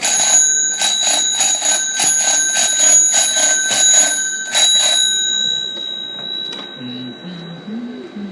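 Small metal bell on a toy fire truck rung rapidly, about four or five strikes a second for about five seconds, then left ringing out and fading.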